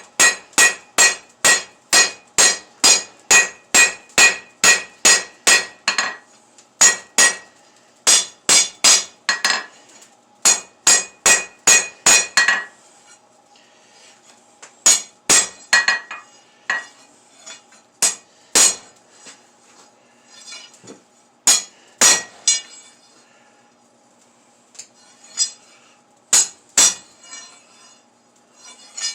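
Blacksmith's hand hammer striking steel on an anvil in quick runs of about three blows a second, each blow ringing, then slower, scattered single blows in the second half.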